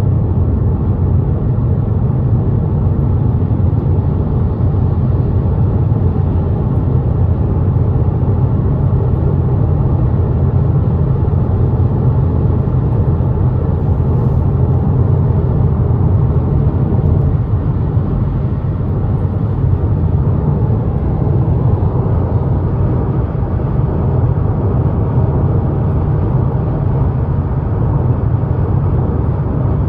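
Car driving at highway speed: a steady low rumble of road and tyre noise.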